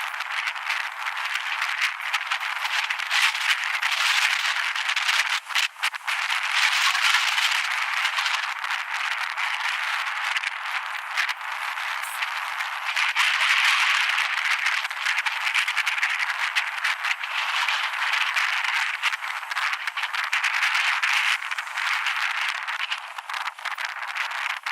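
Wind rushing over the microphone during a ride, mixed with a steady rattling clatter.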